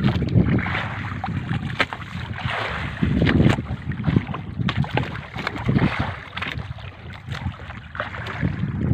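Wind buffeting the microphone and water sloshing around a small fishing boat at sea, rising and falling in gusts, with scattered small knocks.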